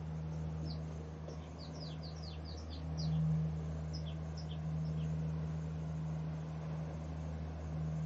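Small birds chirping in the undergrowth: a quick run of short, falling chirps in the first three seconds and a few more around four to five seconds in. A steady low hum runs underneath and swells briefly about three seconds in.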